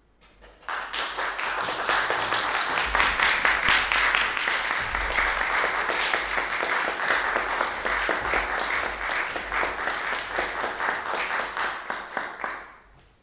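Audience applauding: many hands clapping, starting just under a second in and dying away near the end.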